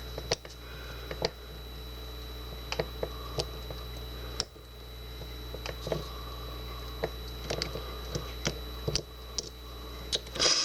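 Short-hook lock pick working the pin tumblers of a Kwikset deadbolt under light tension, giving small, irregular metallic clicks and taps as pins are lifted and set. A steady faint hum runs underneath.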